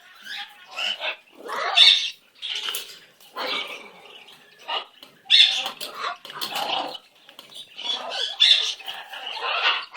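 Pet parrot calling: a string of short, harsh squawks and chattering noises, roughly one or two a second.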